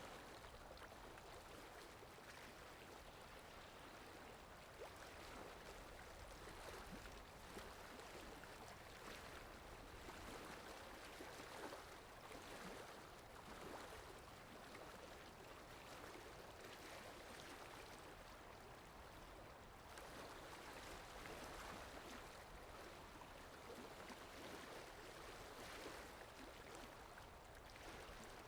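Faint, steady running-water ambience from a background water sound effect, an even rushing wash with gentle swells.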